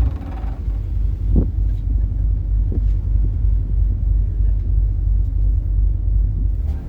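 Passenger ferry's engine running with a steady low rumble, heard on board.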